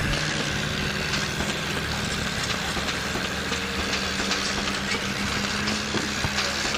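Tractor engine running steadily, with many faint ticks over its even drone.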